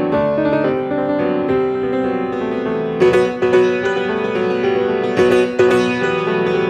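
Solo piano playing a fast passage of many quick notes, with louder accented chords from about halfway through.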